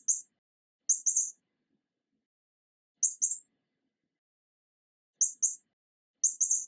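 High, short bird chirps, each a quick pair of notes, repeated five times at uneven gaps of about one to two seconds.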